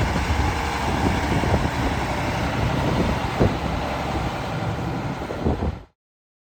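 2001 Mack dump truck's diesel engine running, with a few short knocks over it; the sound cuts off abruptly near the end.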